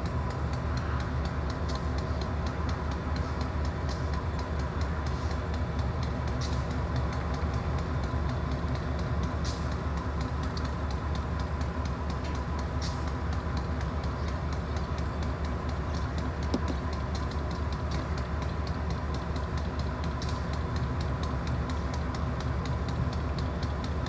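Freight train of loaded-for-quarry hopper cars rolling slowly past, a steady low rumble with a few scattered sharp clanks from the cars.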